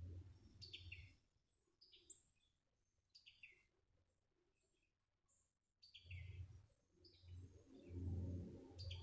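Birds chirping in short, repeated high calls, with intermittent low rumbling that is loudest in the last few seconds.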